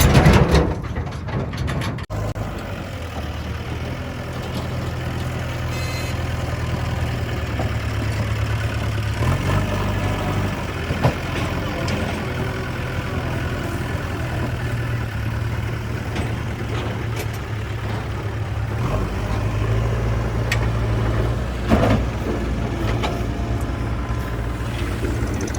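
Diesel engines of earthmoving machinery running steadily, with the engine note easing and picking up over time. Two brief knocks sound, one about midway and one near the end.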